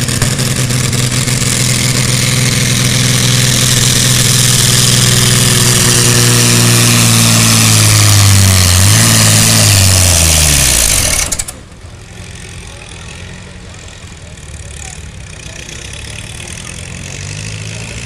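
Pulling tractor's engine running hard at full load with a steady pitch, then slowing as it bogs down under the sled, picking up briefly and dropping again before it cuts off suddenly about eleven seconds in. After that an engine idles much more quietly.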